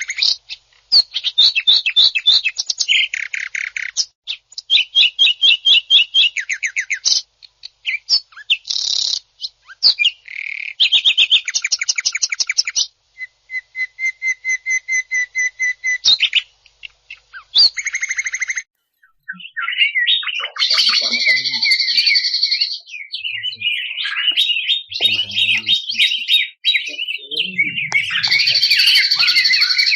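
Greater green leafbird (cucak ijo) singing in fast, rattling trills and harsh bursts, in short phrases with brief gaps. About two-thirds of the way through it turns into a denser, unbroken stream of overlapping calls.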